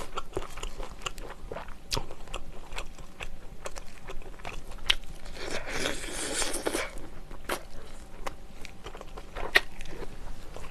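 Close-up eating sounds of soy-braised chicken (jjimdak) bitten off the bone by hand and chewed: wet smacking with many short crunchy clicks, and a longer, louder stretch of chewing about halfway through.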